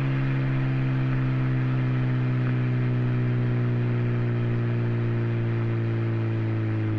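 Hyundai Genesis Coupe's turbocharged four-cylinder engine running through an aftermarket cat-back exhaust, held at a steady engine speed with a constant drone, easing off slightly near the end.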